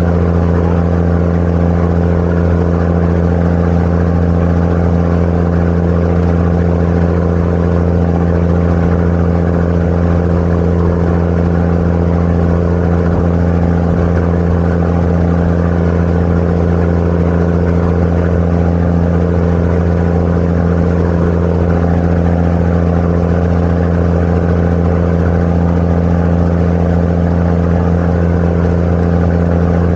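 Tour boat's engine running steadily under way, a constant low hum that does not change.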